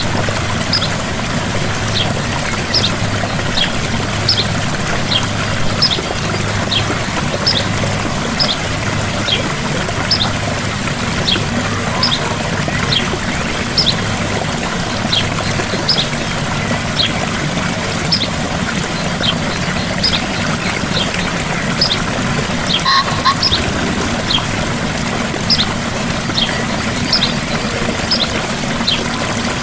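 Gentle waterfall splashing steadily, with a bird repeating short, high, falling chirps about once a second.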